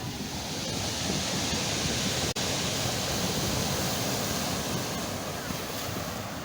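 Sea waves washing onto the shore: a steady rushing surf that swells and eases, with a very short dropout about two seconds in.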